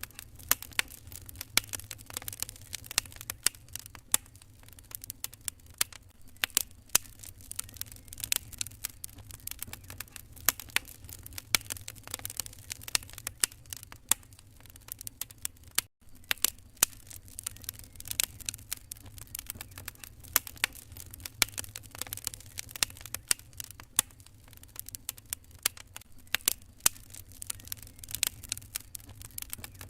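Wood fire crackling in a fireplace: irregular sharp pops and snaps over a steady low rumble, with a momentary dropout about sixteen seconds in.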